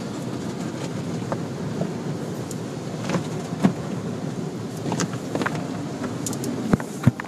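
Car wash machinery running: a steady low rumbling wash of noise with scattered knocks and clicks, a couple of sharper knocks near the end.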